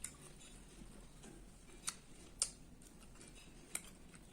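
Faint eating sounds as fish bones are picked out by hand from a rice-and-fish meal, with four sharp clicks spread through.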